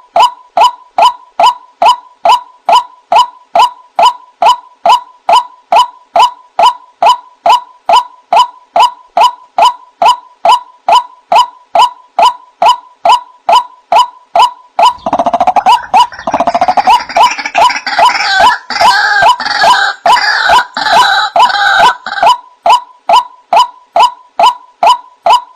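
White-breasted waterhen (ruak-ruak) calling a short, loud 'kwak' note over and over at a steady pace of about two calls a second, a bird-trapping lure recording. For several seconds past the middle, more calls crowd in over the steady series, making it denser and rougher.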